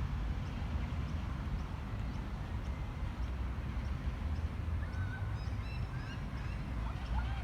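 Birds calling in short, pitched chirps that grow more frequent from about five seconds in, over a steady low rumble.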